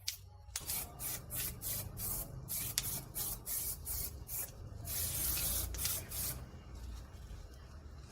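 Repeated short brushing strokes of paint being applied to a refrigerator's outer panel, about two a second, then one longer hiss of a stroke about five seconds in.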